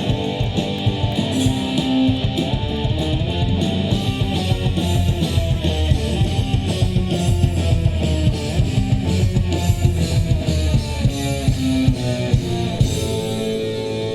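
Live rock band playing an instrumental passage on electric guitars, bass and drum kit, without vocals.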